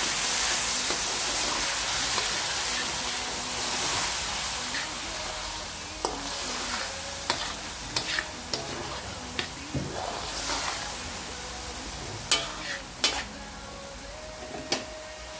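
Onion and tomato masala sizzling in oil and a little water in a metal karahi while a spoon stirs it, with sharp clicks and knocks of the spoon against the pan. The sizzle fades over the second half.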